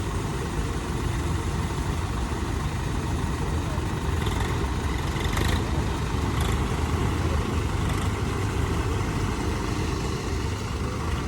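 Tractor diesel engine running steadily with a deep, continuous rumble.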